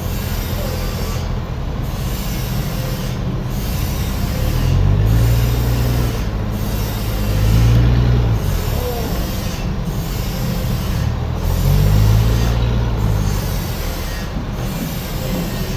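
Heavy machinery running with steady grinding noise, its low engine or motor note swelling and easing three times.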